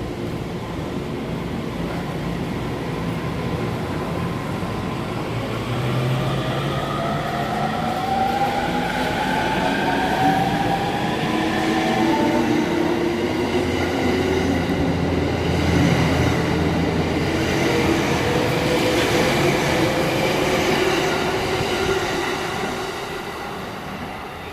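Electric commuter train pulling out: its traction motors whine with several tones rising steadily in pitch as it picks up speed over wheel and rail noise. It grows louder towards the middle and fades near the end.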